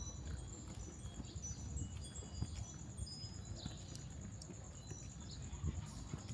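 Faint outdoor street ambience: a low, uneven rumble with scattered short, high-pitched tones and a faint steady high whine.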